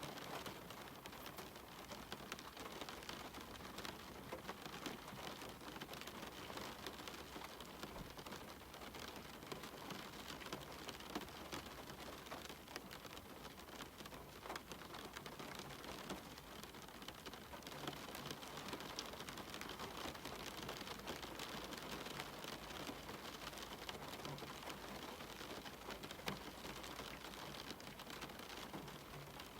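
Steady rain falling, an even hiss dotted with many small drop patters, with no thunder.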